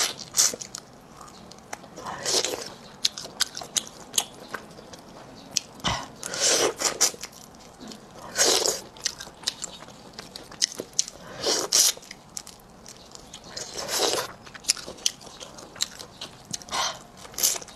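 Close-miked eating of spicy crayfish tails: crunchy bites and chewing every two to three seconds, with small wet mouth clicks in between.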